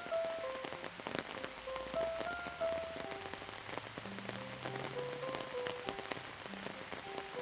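Steady rain with many individual drops pattering on a surface, under a slow, soft melody of held notes stepping up and down, joined by a low held note about halfway through.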